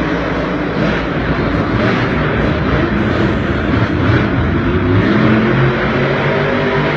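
Monster truck engine running loudly, its pitch rising about four seconds in as it revs up.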